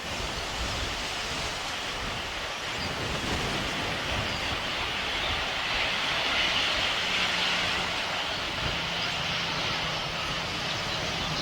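Airliner engine noise at an airport: a steady rushing hiss that swells a little in the middle, with a low steady hum coming in during the second half.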